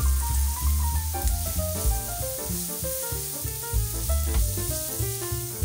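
Chopped onion and grated carrot sizzling in sunflower oil in a nonstick frying pan, stirred with a slotted spatula. Background music with a stepping melody and a heavy bass plays throughout.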